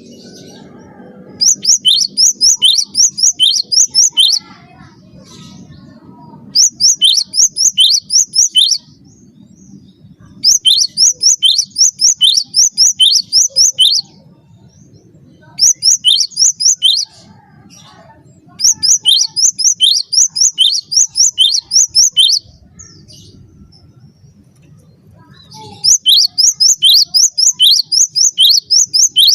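Cinereous tit (gelatik batu) singing loudly. It repeats phrases of two to four seconds, each a quick run of sharp, high notes sweeping down in pitch at about three a second, with pauses of a second or more between phrases.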